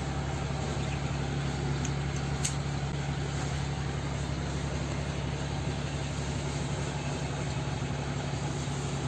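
A steady low machine hum with a light click about two and a half seconds in.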